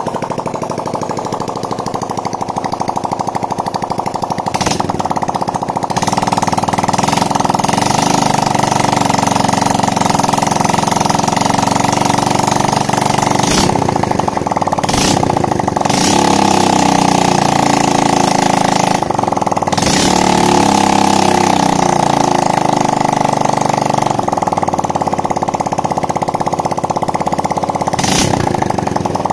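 Old Honda Supra X motorcycle's single-cylinder four-stroke engine running, freshly rebuilt with a new connecting rod. It gets louder about six seconds in, and the revs waver up and down through the middle.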